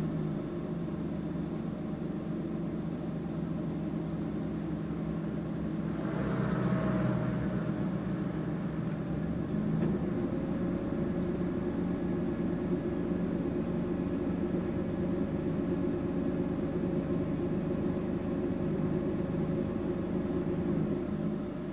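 Vehicle engine idling steadily, a low even hum while stopped at a junction, with a brief rushing sound about six seconds in.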